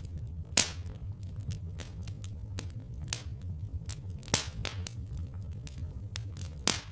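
Wood fire crackling, with irregular sharp pops several times a second; the loudest come about half a second in, around the middle and near the end, over a steady low rumble.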